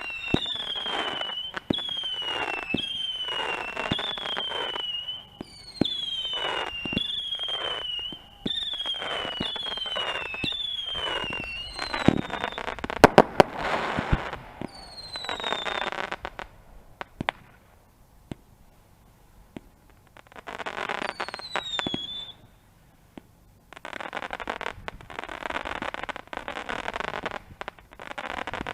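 Fireworks going off: a run of whistles, each falling in pitch over about a second, over steady crackling. About halfway through comes a cluster of sharp bangs, the loudest part. After a quieter gap there is one more whistle, then crackling fizz near the end.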